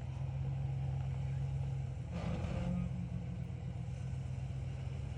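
Ram 1500 pickup engine running steadily at low speed as the truck crawls down a steep rock trail, with a short burst of noise about two seconds in.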